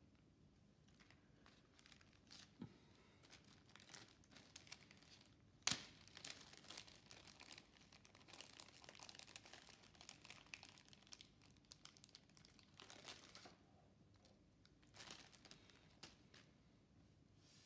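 Faint crinkling and rustling with scattered small clicks; one sharper click about six seconds in is the loudest sound.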